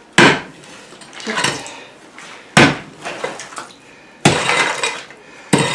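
Metal hand tool striking old concrete floor slab: four sharp, clanking strikes a couple of seconds apart. The third strike is followed by about a second of rattling, grinding noise as the loosened slab shifts.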